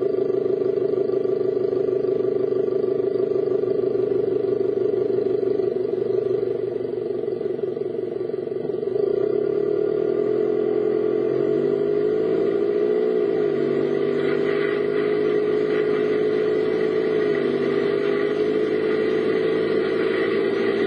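Vehicle driving, heard from inside: a steady engine and road drone whose pitch dips and wavers slightly about halfway through as the speed changes.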